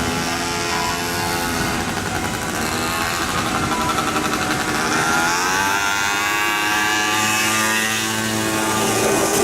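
Keihan electric train's traction motors whining as it moves through the station: a stack of tones that slides down and then climbs again, over the rumble of the running gear.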